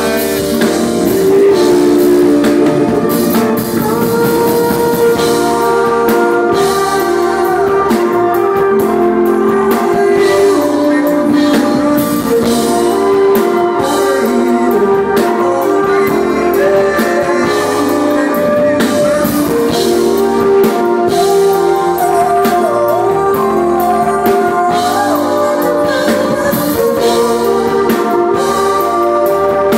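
Live band playing a soul song loudly, with drum kit, guitar and a singing voice.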